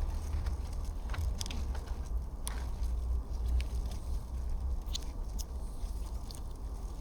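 Campfire of dry reeds and wood crackling, with a handful of sharp, scattered pops, over a steady low rumble.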